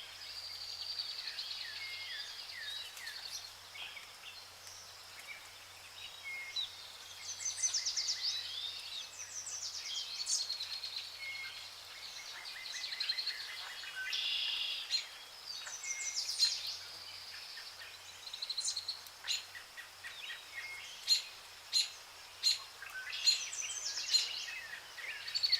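Several songbirds singing and calling over one another: whistles, trills and high chirps, with sharp short chips coming quickly in the last few seconds.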